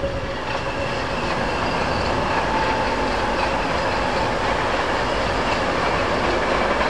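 A train passing close by, its noise building over the first two seconds and then holding steady.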